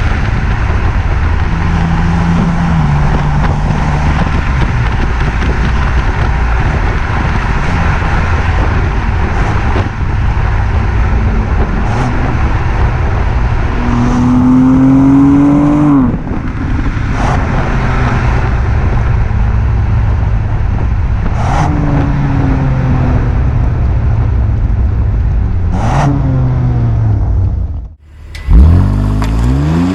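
BMW M2 Competition's twin-turbo straight-six running loudly under way, its note rising and falling with engine speed. The sound drops out briefly near the end, then comes back with a quick rev up and down.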